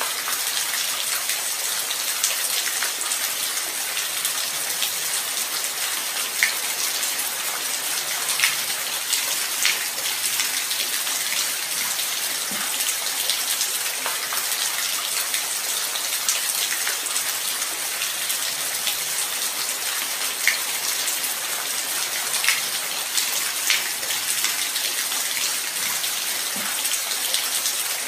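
Light rain falling steadily, a continuous hiss with scattered individual drops ticking close by.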